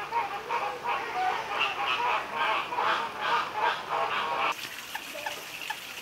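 Birds giving a rapid series of harsh, honking calls, about three a second. A little past four seconds in these cut off abruptly, leaving a quieter background with scattered short chirps.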